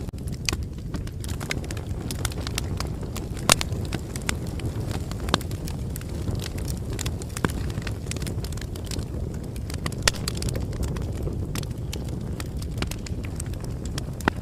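Bonfire crackling: a steady low rush of burning wood with irregular sharp pops and snaps. The strongest pops come about three and a half seconds in and again about ten seconds in.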